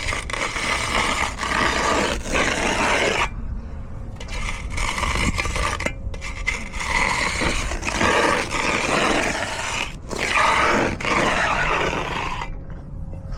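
A hand tool scraping over concrete in long strokes of one to three seconds with short breaks, over a steady low rumble.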